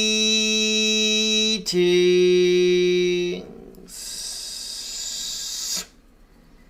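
A man's voice toning a long held note, stepping down to a lower held note and stopping, followed by a long breathy exhale.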